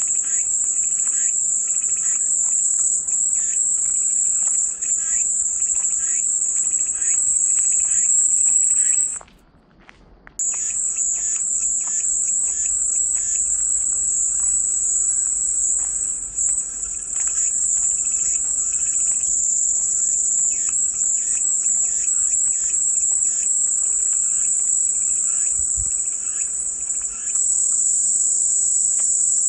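Cicadas singing in a dense, continuous high-pitched buzz. The chorus cuts out for about a second around nine seconds in, then resumes.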